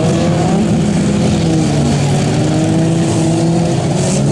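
Several demolition derby cars' engines running together, their pitches rising and falling as they rev.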